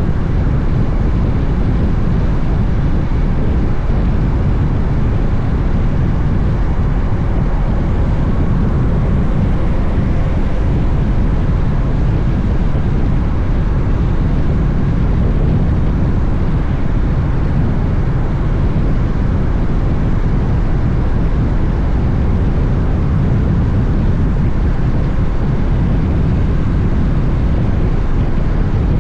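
Honda X-ADV motorcycle riding at a steady pace, heard as a steady rush of wind over the camera microphone with a low engine and road rumble underneath, with no change in pace.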